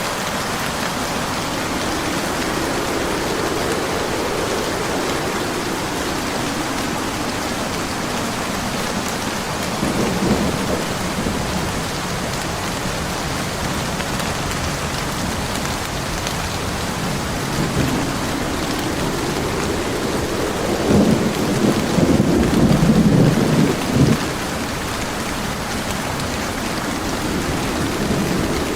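Steady heavy rain, with a brief thunder rumble about ten seconds in and a longer, louder rumble of thunder a few seconds before the end.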